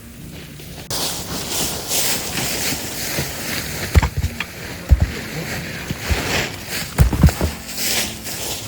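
Sticks being handled and set beside a campfire: loud rustling and scraping, with a few dull thumps as wood is knocked and put down.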